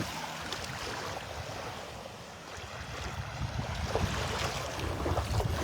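Gentle Gulf of Mexico waves washing at the shoreline, with wind buffeting the microphone, the gusting rumble growing stronger in the second half.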